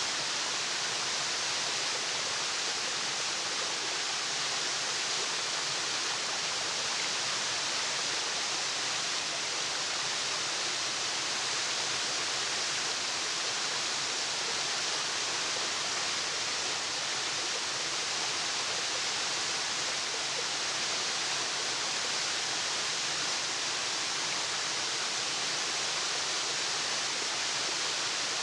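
Waterfall: a steady rush of falling water, an even hiss strongest in the upper range, with no change throughout.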